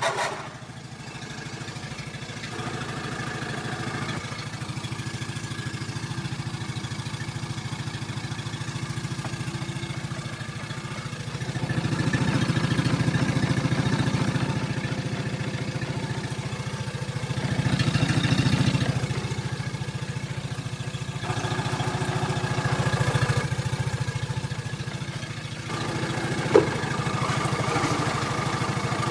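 Yamaha F25AWH four-stroke outboard motor running just after starting: it idles steadily for about ten seconds, then is revved up and let back down to idle several times. A single sharp click comes near the end.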